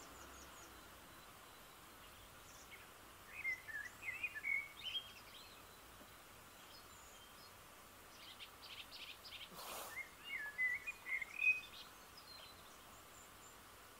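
A bird singing two phrases of quick rising and falling notes, about three seconds in and again around ten seconds, over a steady faint outdoor hiss. There is a brief rush of noise just before the second phrase.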